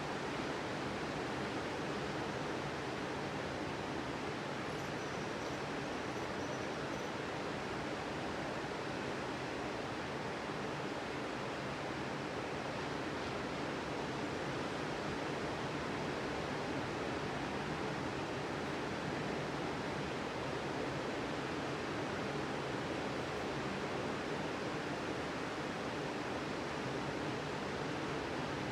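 Ocean surf washing onto a sandy beach, a steady, even rush of breaking waves.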